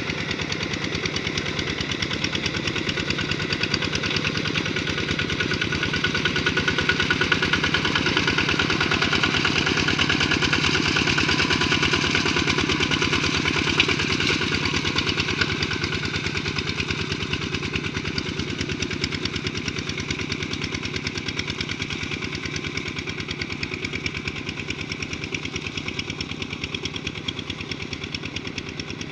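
Tractor engine running steadily with a fast, even firing beat. It grows louder toward the middle, then eases off a little.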